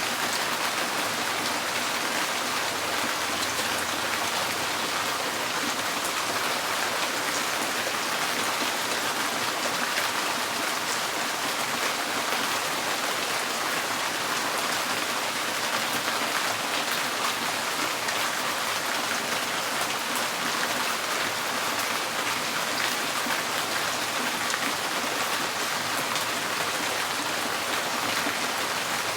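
Steady rain falling on a tin porch roof: a dense, even hiss of countless small drop hits, unchanging throughout.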